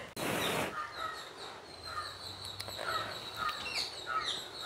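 Small birds chirping in short repeated calls, about two a second, over a steady high thin tone. A brief hiss comes just at the start.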